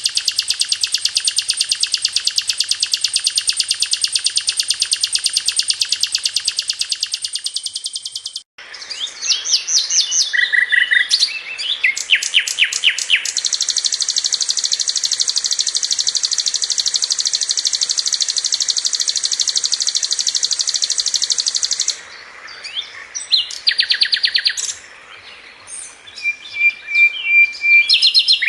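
Sikatan londo (brown-chested jungle flycatcher) singing: long, very fast high trills, one breaking off suddenly about eight seconds in and another running from about thirteen to twenty-two seconds, with bursts of short varied chirps and rapid note runs between and after them.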